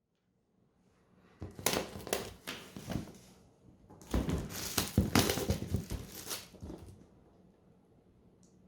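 Packaging being handled during an unboxing: crinkling, rustling and tearing of wrapping and cardboard in two bouts of sharp handling noise, with a pause between them.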